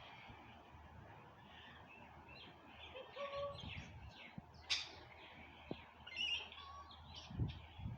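Parrots chirping in short, quick calls, with one sharp, louder call midway. A low thump comes near the end.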